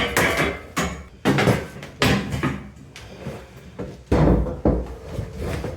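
A refrigerator being shoved up a staircase: several hollow knocks and thuds of the cabinet against the steps, with scraping between them.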